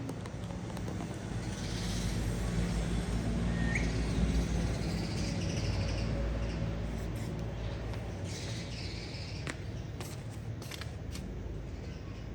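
Birds chirping in scattered bursts, with one short rising whistle, over a steady low rumble; a few sharp clicks near the end.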